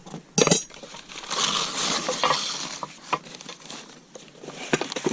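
Light aluminum sawmill frame parts and hardware being handled out of their box: a sharp clank about half a second in, then a second or so of rustling and scraping, then several light knocks and clinks.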